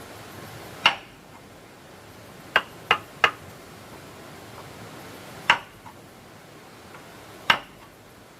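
Hammer strikes on wood: six sharp, irregularly spaced knocks, three of them in quick succession near the middle.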